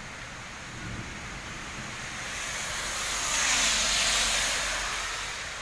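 Steady heavy rain on a wet road, with a louder rushing hiss that swells for about two seconds and fades again over the next two.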